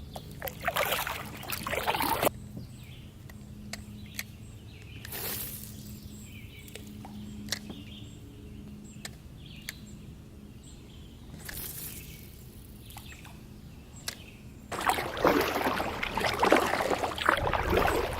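Kayak paddle strokes sloshing through calm water: a few separate strokes with quiet gaps between, then steady paddling with louder splashing from about three-quarters of the way in.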